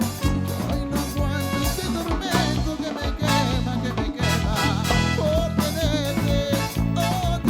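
Live tropical dance band playing an instrumental passage with a steady beat, bass, percussion and a wavering lead melody.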